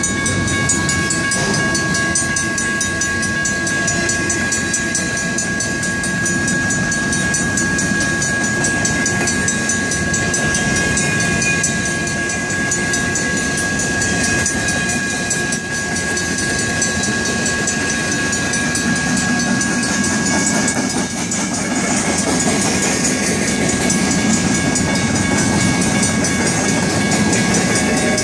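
Train rolling through a grade crossing with wheels clacking over the rails, while the crossing's Griswold mechanical bell and electronic bell ring on and on.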